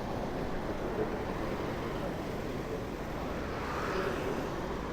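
Steady rushing noise of wind and street traffic picked up by a microphone riding along on a bicycle.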